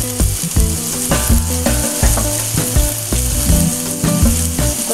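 Diced chicken and freshly added chopped onion sizzling in oil and butter in a nonstick frying pan, stirred with a spatula that scrapes and taps now and then. The chicken is about three-quarters cooked.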